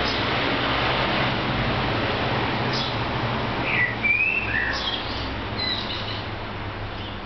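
Birds chirping in short calls, a few in the middle and again near the end, over a steady background hiss.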